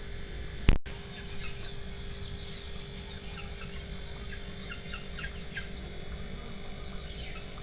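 Chickens clucking in the background, many short scattered calls, with one sharp click less than a second in.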